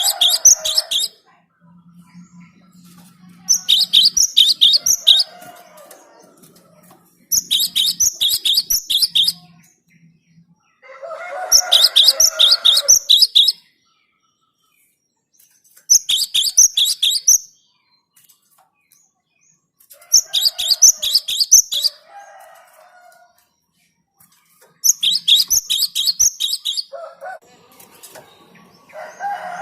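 Gelatik batu (cinereous tit) calling in bursts of rapid, high, repeated chirps. Each burst lasts one to two seconds and they come about every four seconds. Lower, rougher notes sound under some bursts.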